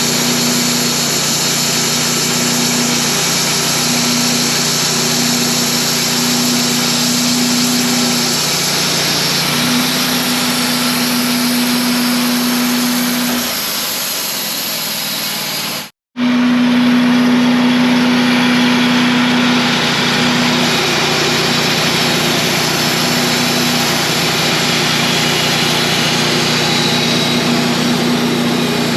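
Wood-Mizer band sawmill running, its engine holding a steady note with a constant whir over it. The sound drops out for a split second about halfway, then carries on unchanged.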